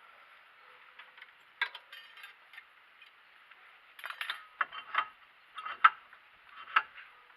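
Metal tools and brake parts being handled: scattered clicks and clinks, then a run of sharper metallic knocks in the second half.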